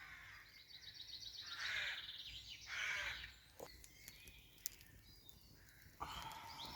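Wild birds calling in woodland: a fast, high, trilling run of notes and two louder, harsh caw-like calls in the first three seconds, with a few sharp clicks after them and more calls near the end.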